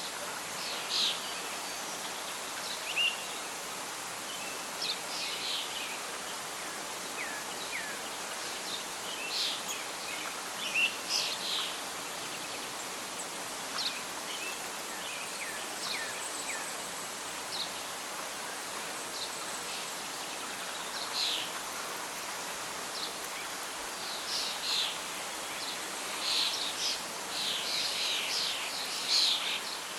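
Birds singing over a steady background hiss of wind and leaves, with short high calls scattered throughout that grow into a busier chorus in the last few seconds.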